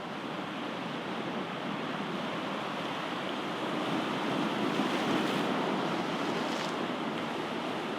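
Ocean waves breaking and washing on the shore in a continuous, even rush of surf that swells slightly about halfway through.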